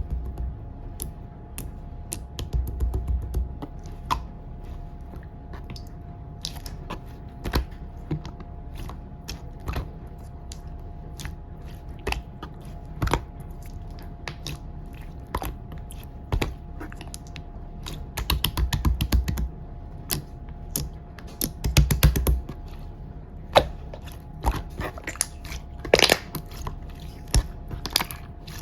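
Light-green slime being squeezed and poked by hand, making irregular sticky clicks and pops, with a few denser runs of crackling and one sharper pop near the end.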